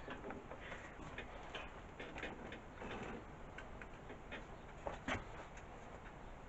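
Faint, irregular clicking and light tapping of hand tools working on the mower engine's carburettor fixings, with one louder knock about five seconds in.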